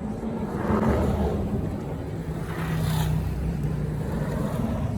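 Motor vehicle engine running with a steady low hum, swelling louder about a second in and again around three seconds.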